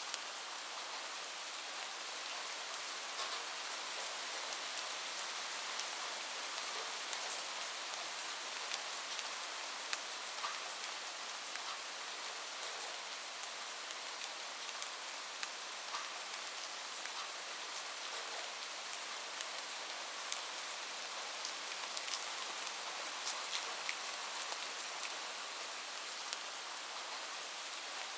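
Steady rain falling on a roof: a constant hiss with many separate drops ticking sharply on top of it.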